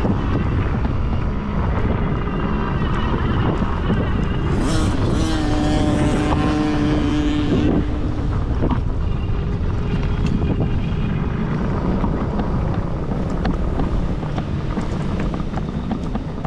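Kids' small dirt bike engines running during a race, with wind buffeting the microphone. About five seconds in, one engine holds a steady note for a couple of seconds.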